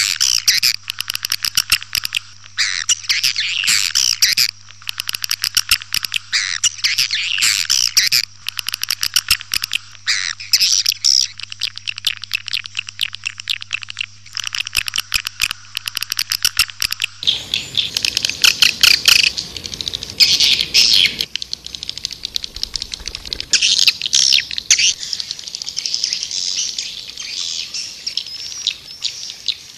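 Swiftlets (burung walet) chirping and twittering in rapid, dense bursts: a swiftlet call recording of the kind played to lure the birds. About 17 seconds in, the recording changes: a low hum underneath stops, and the chirps come in sparser bursts over a faint hiss.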